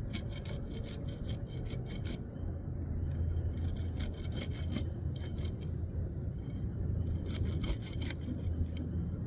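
A blade cutting asphalt roof shingles free of their warm, softened tar sealant strip: bursts of quick rasping scrapes in three clusters, over a steady low hum.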